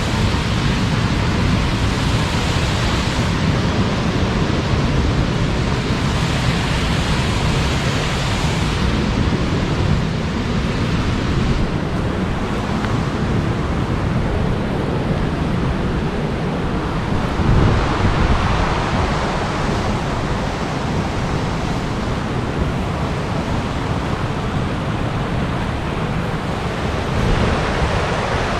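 Large waterfall rushing, a steady loud roar of falling water that swells and eases slightly, with gusts of wind buffeting the microphone.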